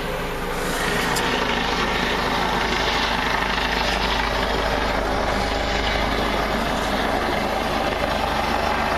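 Helicopter flying close by: a loud, steady rotor and engine noise that grows a little louder about half a second in.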